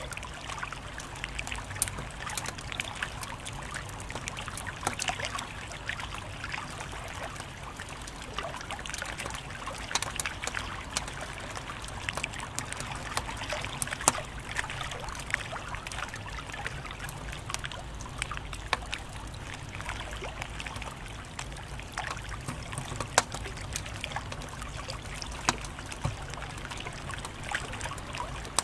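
Wood fire crackling: a steady hiss with a low rumble beneath, broken by irregular sharp pops and snaps.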